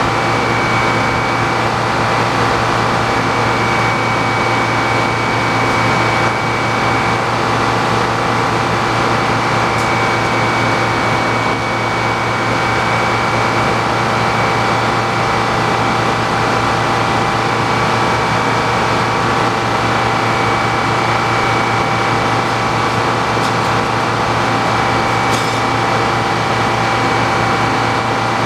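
Sawmill running steadily: a constant, unchanging machine drone with a steady high whine over it.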